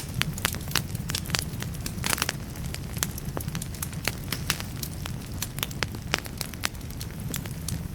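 Wood fire burning in a fireplace: logs crackling and popping with many sharp, irregular snaps over a steady low rumble of the flames, with a brief flurry of pops about two seconds in.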